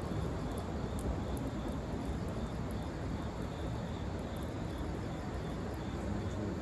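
Wood fire burning in a fire pit stand: a steady low rumble with faint, scattered crackles.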